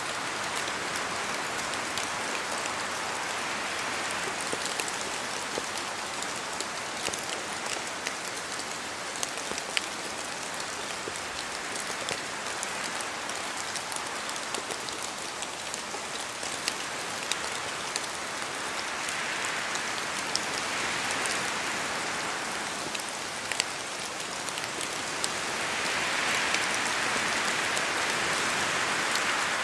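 Steady rain falling in a forest, with many separate drops ticking sharply and irregularly. The hiss swells twice, in the second half, as gusts of wind pass through the trees.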